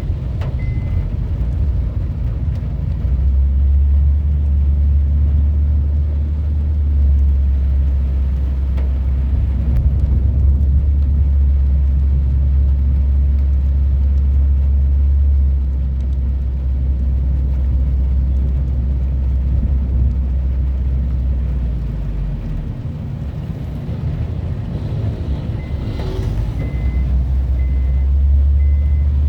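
Rainstorm heard as a loud, steady low rumble. It eases about 22 seconds in and builds again near the end.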